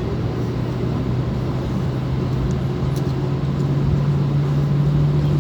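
Airbus A320's jet engines running with a steady rushing noise and a low hum that rises slowly in pitch and grows louder, the sound of the engines spooling up.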